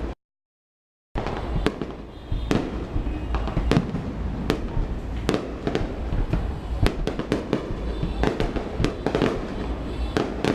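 Fireworks display: many shells bursting in quick succession, sharp bangs and crackles over a continuous low rumble. The sound drops out completely for about the first second, then comes back.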